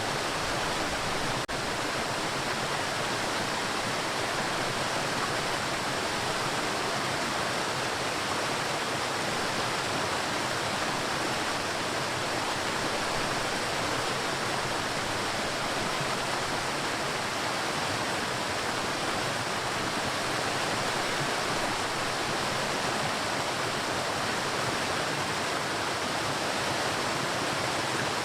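Waterfall: water falling steadily with an even, unbroken hiss that does not change in level.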